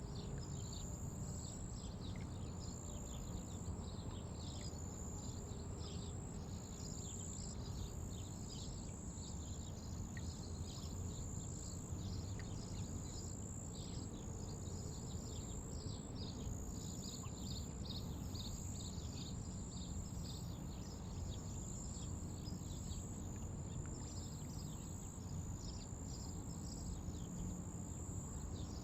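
Outdoor ambience: many rapid, high chirps over a constant high-pitched buzz, with a steady low rumble underneath.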